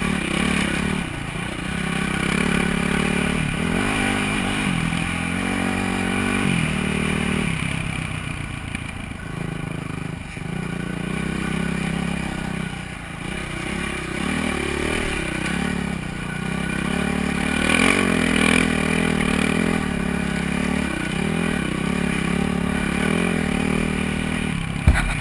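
Honda CRF450R dirt bike's single-cylinder four-stroke engine running while being ridden, its pitch rising and falling with the throttle, with a sharp knock just before the end.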